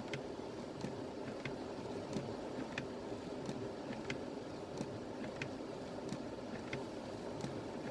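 Steady low rumble inside a stranded Jeep Wrangler's cabin, with a flasher relay clicking evenly about every two-thirds of a second.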